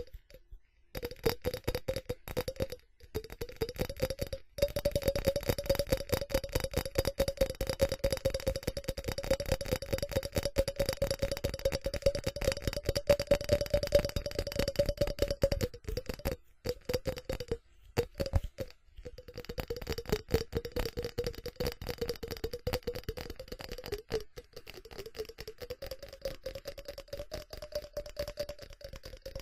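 Fast, dense tapping on ceramic, the ceramic ringing at one steady pitch under the taps. The tapping breaks off briefly a few times and is softer in the last third.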